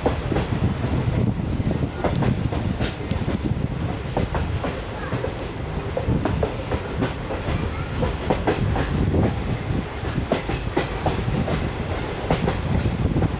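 Passenger train running along the track, heard from on board: a steady low rumble with wheels clattering over the rails in many irregular knocks.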